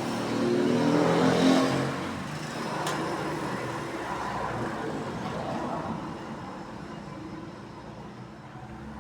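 A motor vehicle engine swelling to a peak about a second and a half in, then slowly fading away, with a single sharp click midway.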